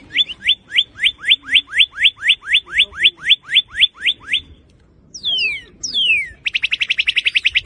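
Northern cardinal (red cardinal) singing: a fast run of about seventeen short rising whistles, about four a second, then two long down-slurred whistles and a rapid trill near the end.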